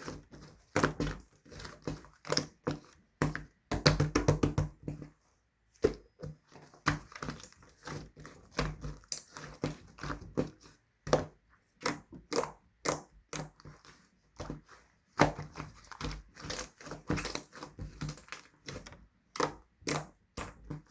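Green slime being squished and worked by hand, giving an irregular run of sticky clicks and crackling pops.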